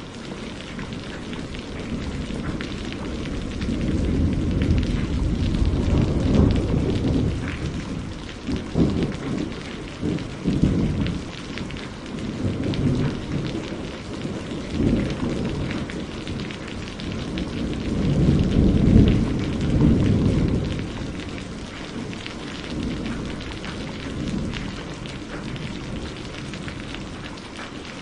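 Steady rain falling, with rolling thunder that swells and fades twice, strongest about two-thirds of the way through, and a few sharper cracks in between.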